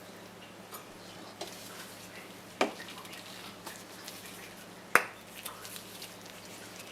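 Kitchenware clinking: two sharp knocks about two and a half seconds apart, with a few lighter clicks between them.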